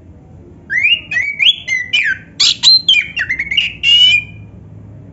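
Oriental magpie-robin singing one phrase of varied whistled notes that slide up and down, mixed with a few sharp clicks, beginning under a second in and ending about four and a half seconds in.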